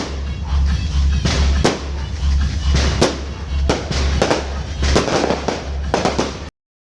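Fireworks going off in a run of sharp bangs and crackles, over music with a pulsing heavy bass. All sound cuts off abruptly about six and a half seconds in.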